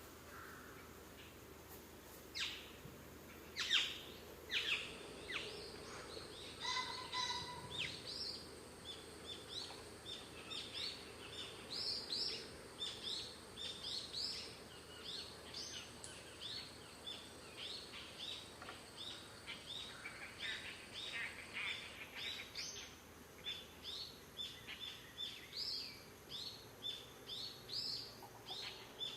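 Forest birds chirping: a long run of short, quick high notes, about two to three a second, with a few louder sharp calls in the first few seconds.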